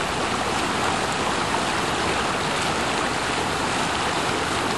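Floodwater rushing in a steady, even roar of running water.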